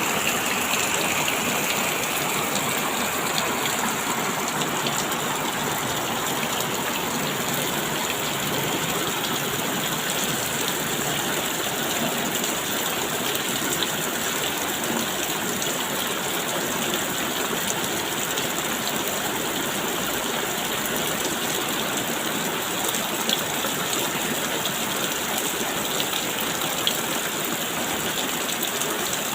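Rain falling steadily: a continuous, even hiss with scattered faint taps of drops.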